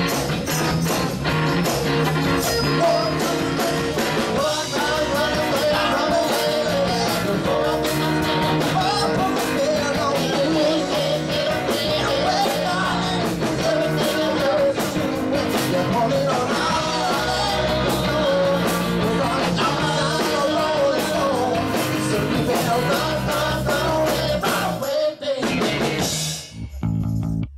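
Rock-and-roll band music with electric guitar, drum kit and a singing voice, breaking off briefly near the end.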